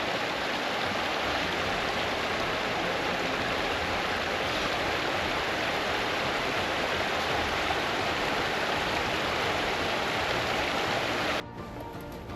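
Steady rushing of a moorland stream and its small waterfalls, which cuts off abruptly near the end, leaving quieter faint background music.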